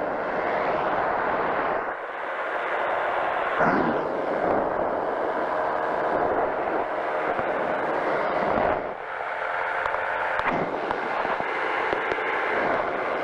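Powered parachute's engine and propeller running steadily in flight, a dense drone with small swells and dips in level.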